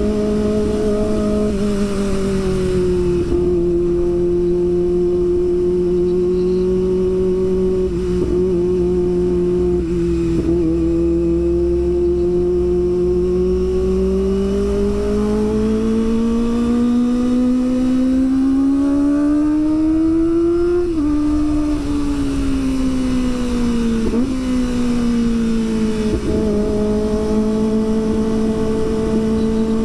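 Kawasaki ZX25R's 250 cc inline-four engine running at high revs under way: its pitch holds steady, climbs for several seconds, drops suddenly about two-thirds through, then falls and steps back up twice near the end. Low wind rumble on the helmet-mounted microphone.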